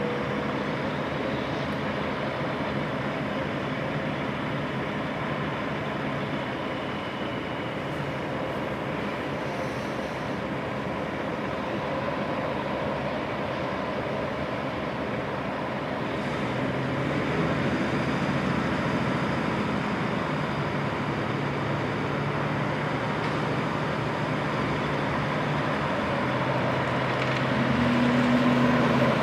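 Heavy diesel truck engine running steadily, the drone growing louder a little past halfway and again near the end.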